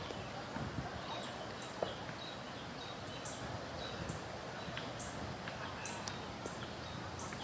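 Outdoor ambience with short, high-pitched bird chirps repeating irregularly every second or so, over a steady background hiss, with a few faint clicks.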